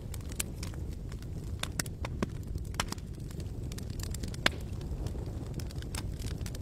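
Campfire crackling, with irregular sharp pops and snaps over a steady low rumble. The loudest pop comes about four and a half seconds in.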